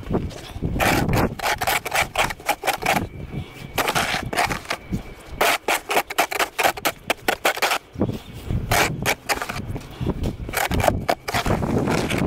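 Crunching and scraping in snow, in repeated bursts of quick strokes with short pauses between them.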